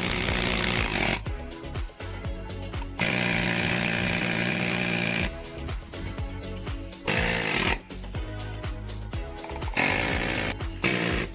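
Handheld power tool running in four bursts of one to two seconds each, during hard, dusty work, over background music.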